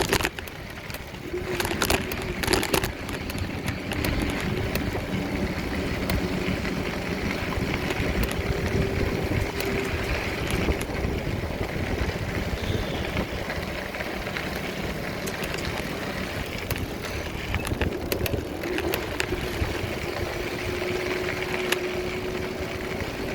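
Wind rushing over the microphone while riding along, with a steady mid-pitched whine underneath that holds one pitch. A few sharp knocks come about two to three seconds in.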